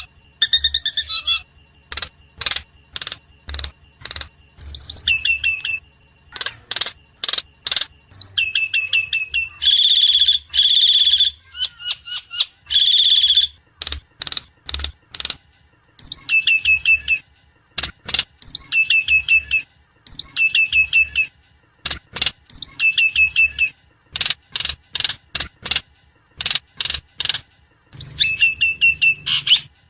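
Javan myna (jalak kebo) calling over and over: quick runs of short sharp notes alternating with repeated downward-sliding whistled calls, and a few longer harsh, buzzy calls about ten and thirteen seconds in.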